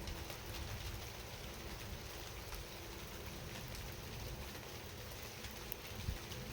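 Steady rain falling, a constant hiss with individual raindrops ticking through it, and a single louder knock about six seconds in.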